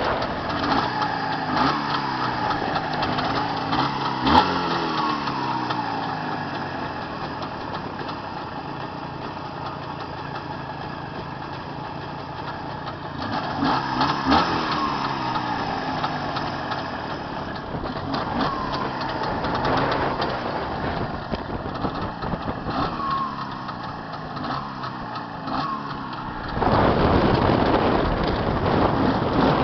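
Jawa 634 two-stroke twin engine running, its pitch rising and falling again and again as it is revved and eased off. About three seconds before the end a louder steady hiss suddenly covers it.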